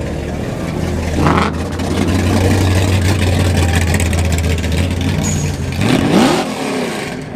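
Car engine running with a steady low drone, a brief rev about a second in, and a sharply rising rev near six seconds in as the car accelerates.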